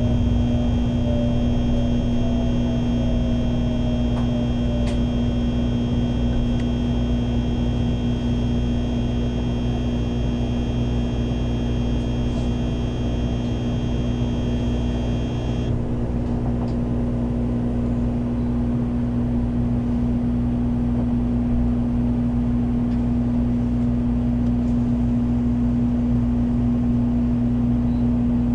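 Sakura Shinkansen train's running noise heard inside the passenger cabin: a steady low rumble with a constant hum. A pitch sliding down can be heard in the first few seconds, and a set of high whining tones cuts off suddenly about halfway through.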